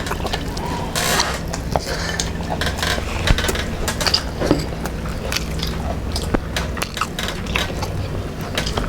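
Eating from a plate: scattered light clinks of dishes and cutlery mixed with biting sounds, over a steady low hum.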